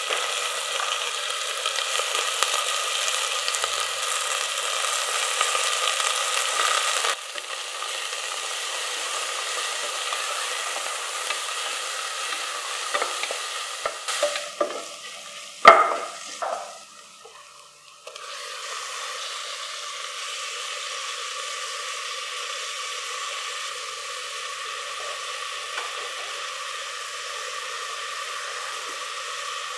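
Onions and spices frying in oil in an aluminium pressure cooker, a steady sizzle with a metal spoon stirring and scraping. About halfway through there are a few knocks, one of them loud and sharp, and the sizzle drops briefly before steady frying resumes.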